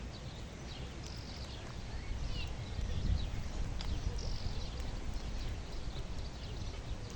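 Small birds chirping repeatedly, short high calls that mostly fall in pitch, over a steady low rumble.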